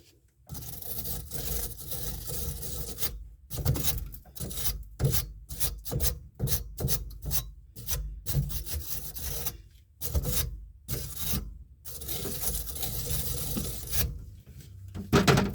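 Scraping strokes in quick runs as gunk is scrubbed out of a drain pipe fitting's threads with a makeshift tool standing in for a wire brush, with a few short pauses between runs. A louder thump comes just before the end.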